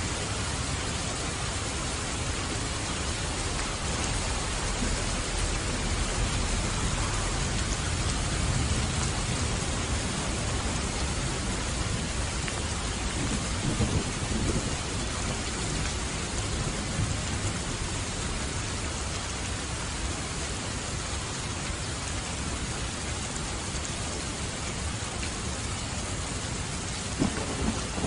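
Steady rain falling during a thunderstorm, with low thunder rumbling under it. The rumble swells about a quarter of the way in, and there are short louder moments around halfway and near the end.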